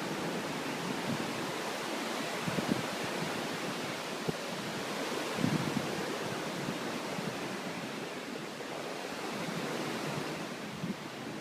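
Steady rushing of a flooded river running high over its banks.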